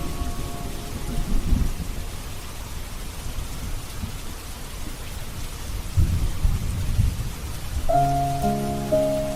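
Steady rain with low rolls of thunder, one about a second in and a louder one about six seconds in. Soft music with held notes comes back in near the end.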